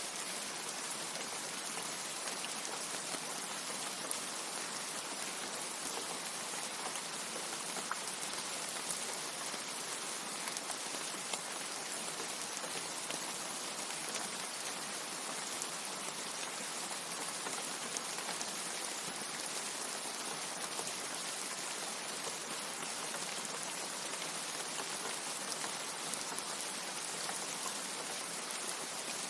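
Steady rain falling, an even hiss with scattered louder drop ticks and no thunder.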